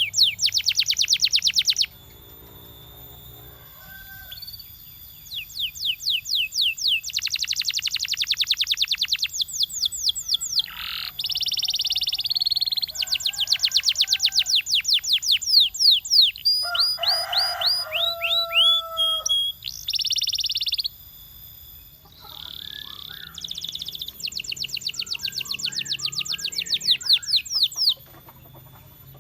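Domestic canary singing: a run of high phrases, each a fast trill of rapidly repeated notes or a buzzy roll lasting a few seconds, broken by short pauses.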